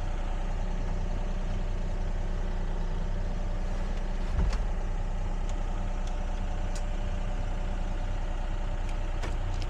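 Excavator's diesel engine idling with a steady low hum, and a single dull thump about four and a half seconds in.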